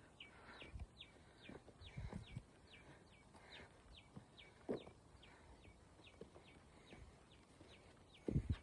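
A bird repeating a short falling call about twice a second, faint, with a few low thumps among the calls.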